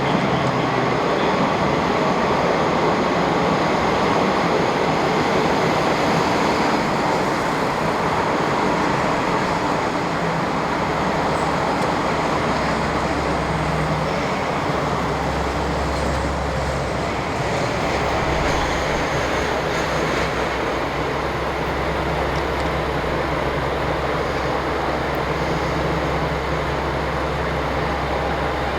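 Train running: a steady rumble of wheels on rails, with a deeper drone coming up about halfway through.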